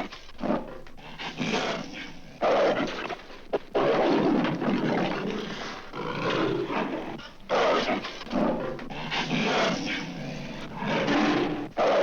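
Leopard snarling and growling in a series of harsh, rough bursts with short pauses between them, from a 1960s sound-effects record.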